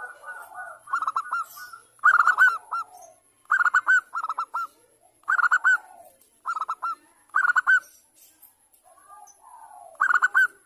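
Zebra dove (perkutut) cooing: short bursts of quick, ringing, arching coo notes, repeated about every second with gaps between phrases. Softer, lower notes come near the start and again shortly before the last burst.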